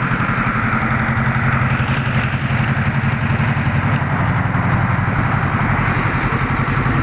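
Large truck's engine running at idle close by, a steady pulsing rumble that starts suddenly.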